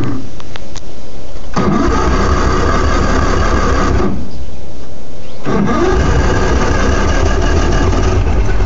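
Mercury 175 outboard, a carbureted two-stroke V6, being cranked over on the starter with the choke on during a cold start: two long cranking bursts with a pause of about a second and a half between them.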